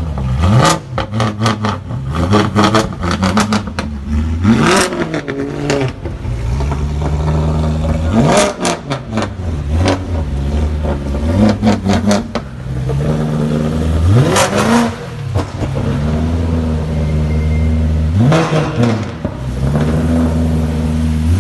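BMW M3 E92's 4.0-litre V8 idling and being revved about four times, each rev rising quickly and falling back to idle, with sharp exhaust crackles in between.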